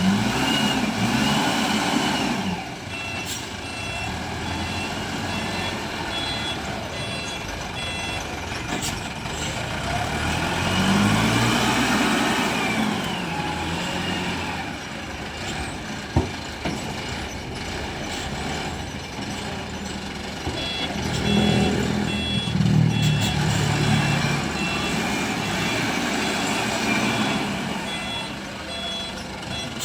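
SYZG ZL 932 wheel loader's diesel engine revving up and falling back in repeated surges as it works. A reversing alarm beeps about twice a second for a few seconds early on and again through the last third. A single sharp click sounds about halfway through.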